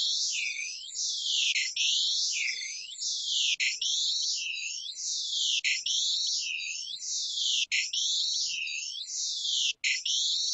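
The vOICe image-to-sound software sonifying a live webcam picture of a face: a high-pitched hissing, warbling synthetic sound, repeated scan after scan, each scan starting with a brief click.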